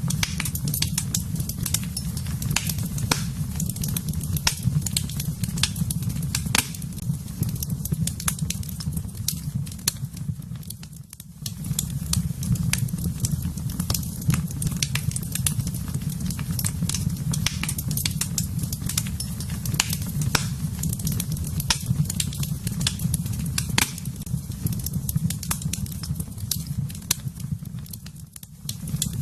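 Wood fire burning in a fireplace: dense, irregular crackles and pops over a steady low rumble of the flames, easing off briefly twice.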